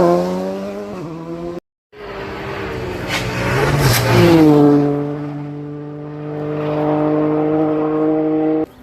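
Rally car engines at speed, in two clips with a brief silent cut between them. The engine note rises and dips through gear changes, then holds steady for the last few seconds.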